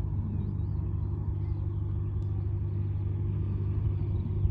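A steady low engine drone holding one constant pitch.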